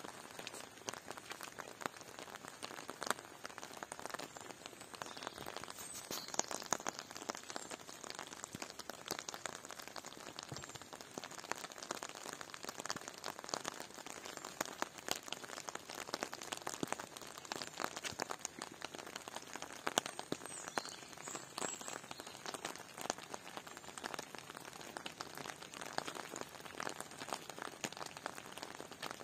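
Rain falling steadily, a dense irregular patter of drops striking surfaces.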